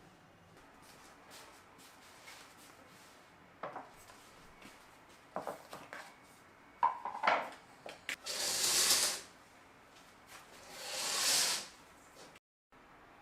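Dishes and utensils being handled: light knocks and clinks, then two rising-and-falling hissing sounds a couple of seconds apart.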